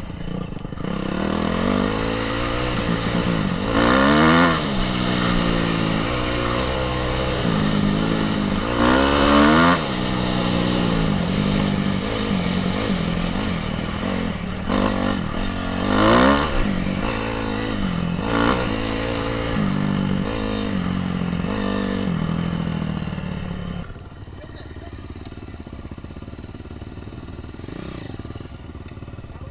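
Single-cylinder four-stroke off-road engine running under load, revving up with rising pitch and easing off several times, the strongest surges about four, nine and sixteen seconds in. About five seconds before the end it drops to a quieter, steadier running.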